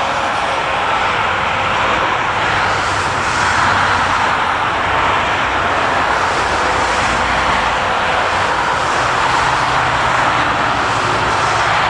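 Jet airliner's engines: a loud, steady rush of engine noise with a faint low hum underneath.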